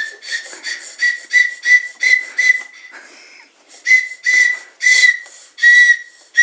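Tin whistle blown by a small child in short, repeated toots on one high note, about three a second, pausing about three seconds in and then going on with slower toots.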